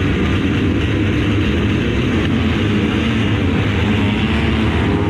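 Sidecar motocross engines running loud and steady on the track, a dense unbroken drone.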